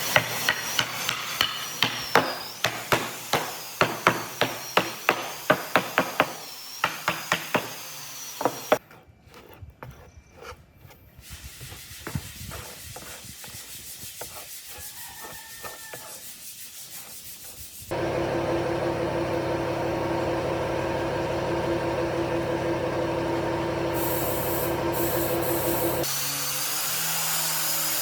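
Woodworking tools on a large piece of wood. First comes a rhythm of sharp strokes, about two or three a second, then scattered quieter knocks and scraping. About eighteen seconds in, a power tool starts running steadily, and its tone changes near the end.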